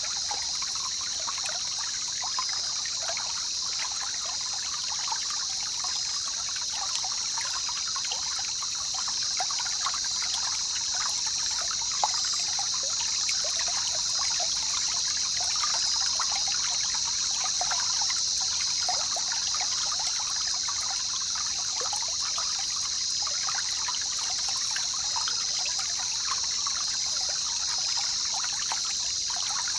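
Jungle river water trickling and babbling, a dense stream of small splashes, under a steady high-pitched hum.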